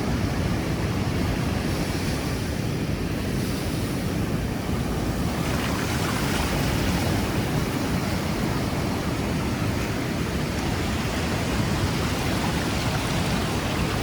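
Strong wind of about 30 knots buffeting the microphone in a steady low rumble, over the continuous wash of surf breaking on the beach. The hiss brightens about halfway through.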